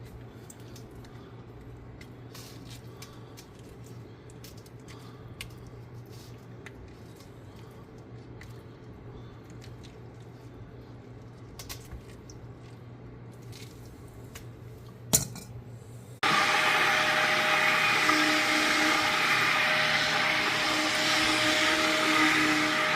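Faint clicks and small clatter of kitchen work over a low steady hum, then a sharp clack. About two-thirds of the way through, a loud steady whirring noise starts abruptly.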